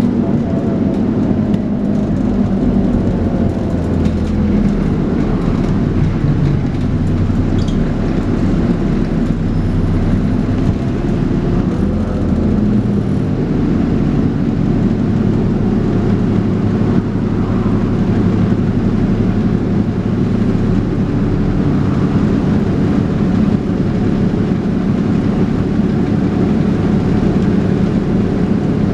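Dennis Trident 2 double-decker bus's diesel engine running on the move, heard from aboard. The engine note falls in pitch over the first few seconds, then holds steady.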